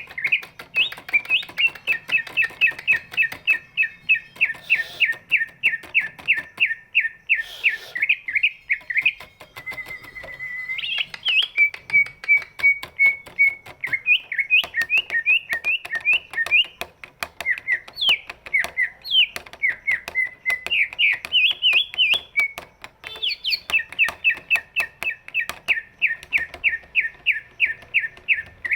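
Cucak ijo (green leafbird) singing: long runs of rapid repeated chirps, broken about ten seconds in by a held whistled note and a stretch of varied sliding notes, then rapid repeated chirping again near the end.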